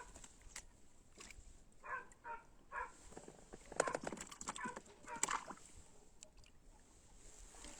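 Birds calling: a series of short pitched calls in quick clusters, loudest around the middle, with a few sharp clicks between them.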